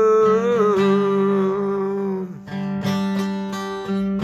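Singing over a strummed guitar: one long sung note, with a slight waver, ends a little after two seconds in, then the guitar keeps strumming chords alone.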